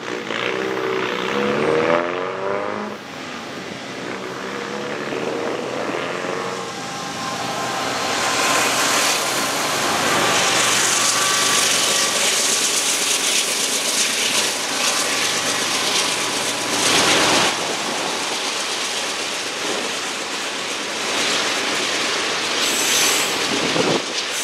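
A CSX freight train led by GE ET44AH diesel locomotives. Its horn sounds twice in the first several seconds, then the locomotives' engines and the steel wheels get loud as the train passes close by, with the rolling of the freight cars continuing behind them.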